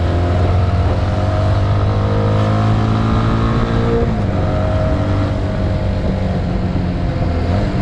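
Motorcycle engine running under way, its pitch slowly climbing and then dropping about four seconds in, with a steady rush of wind and road noise.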